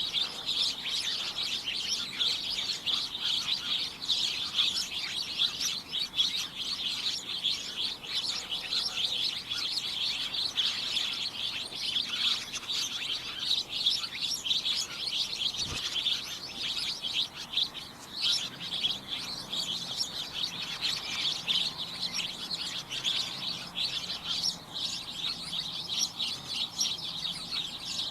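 A group of small birds chirping busily, many short high chirps overlapping without a break.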